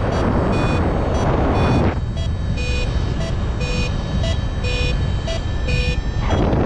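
Paragliding variometer beeping in short, evenly spaced tones about twice a second: its climb tone, signalling rising air. Heavy wind rushes over the microphone, loudest in the first couple of seconds.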